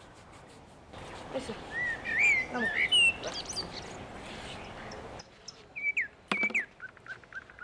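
Small birds chirping and twittering, in short rising and falling calls, with a couple of sharp clicks near the end.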